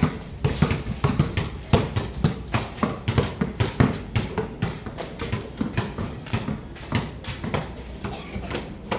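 Several basketballs bouncing on a hard court. The dull thuds overlap at uneven spacing, about three or four a second.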